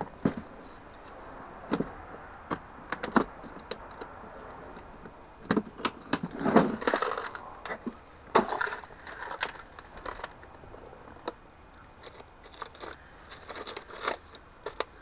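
Hands handling and rummaging through small metal and plastic parts and tools from a dismantled CD drive: scattered clicks and clatters, busiest with scraping and rattling about six to nine seconds in.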